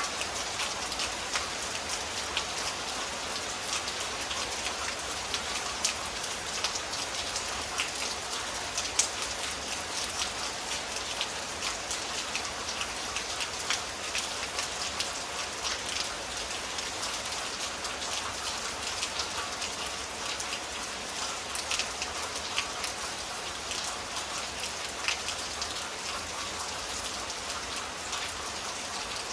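Steady rain from a summer storm, a continuous hiss with many sharper individual drop hits ticking through it.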